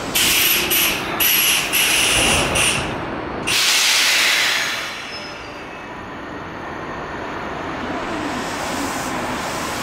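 Electric commuter train at a station platform: a high squeal in several short bursts over the first three seconds, then a loud hiss of released compressed air about three and a half seconds in, settling to a low steady rumble.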